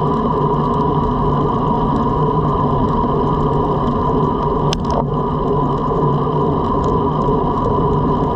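Steady rush of wind and road noise from a road bike riding at speed, with one brief click about halfway through.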